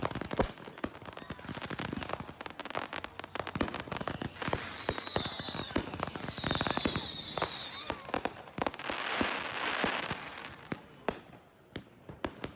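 Fireworks going off in a dense run of sharp crackling pops. About four and six seconds in, two whistles fall in pitch, and a hissing crackle follows near the end.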